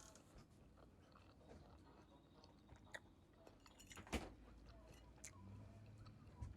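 Faint sounds of a person eating a meal of oxtail and rice: quiet chewing and small clicks, with one sharper click about four seconds in.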